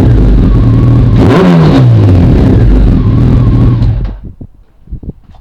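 Honda CBR1100XX Super Blackbird's inline-four engine revving through a one-off custom stainless exhaust with high-rise cans. It blips once about a second in, the pitch rising and falling back, then runs steady until the sound cuts off about four seconds in, leaving a few faint knocks.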